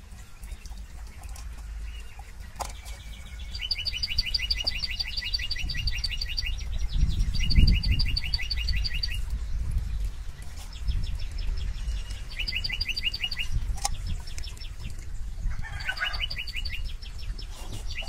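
A small bird singing bouts of rapid trills, each a fast run of high notes lasting one to two seconds, repeated five or so times with short gaps, one near the end ending in a falling note. Beneath it a low rumble swells, loudest about seven to eight seconds in.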